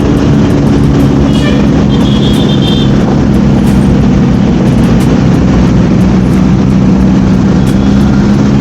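Motorcycle engine running at a steady pitch while riding, with a heavy low rumble. A short high-pitched tone sounds between about one and a half and three seconds in.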